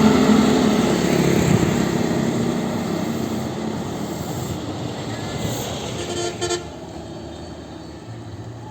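A large road vehicle, a truck or bus, passes with its engine running, its sound fading steadily as it moves away. A short double horn toot sounds about six seconds in.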